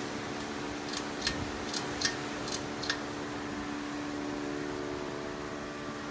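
Hunter Key Biscayne ceiling fan running with a steady motor hum, with a quick run of about six sharp ticks one to three seconds in. The owner says the fan has a bad capacitor.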